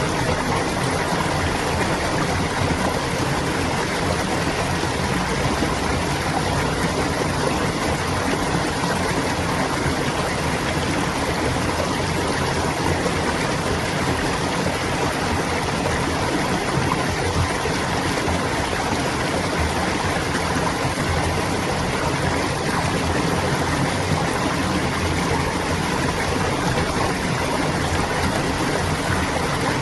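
Clear stream water gurgling and flowing in a steady, unbroken rush.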